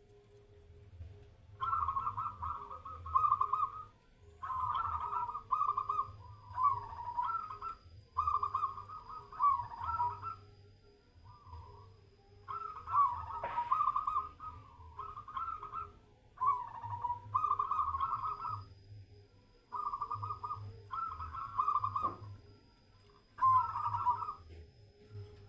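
Zebra dove (perkutut) cooing: about a dozen short, trilling coo phrases, each a second or two long, separated by brief pauses.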